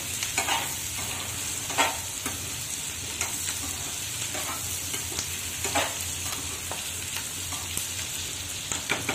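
Cubed potatoes and onions sizzling in hot oil in a kadhai while being stirred with a spatula, which scrapes against the pan now and then.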